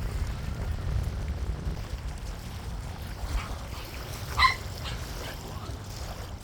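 A dog gives a single short, sharp yip about four and a half seconds in, over a steady low wind rumble on the microphone.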